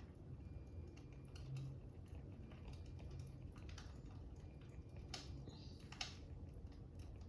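Fire crackling: scattered small pops and clicks over a low steady rumble, with two louder crackles about five and six seconds in.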